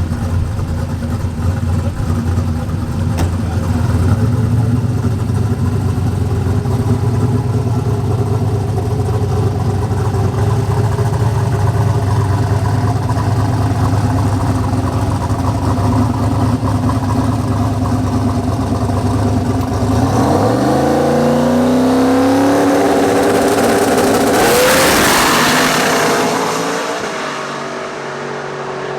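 Turbocharged LS V8 drag car engine idling with a steady, lumpy note for about twenty seconds, then revving up with a rising pitch into a loud rushing noise, before the sound drops back and falls away near the end.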